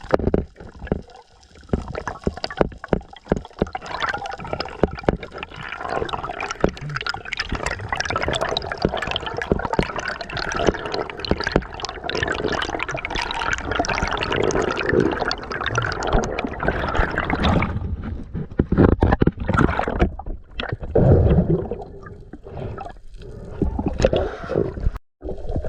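Water sloshing and bubbling with many small crackles, the sound of a spearfisher swimming and diving. It cuts out briefly near the end.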